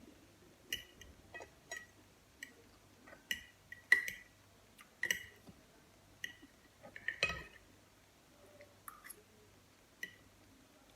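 Eating sounds from a meal of tomatoes and mozzarella: a dozen or so short clinks and clicks of cutlery on a plate, scattered irregularly. Quieter chewing and mouth sounds come between them.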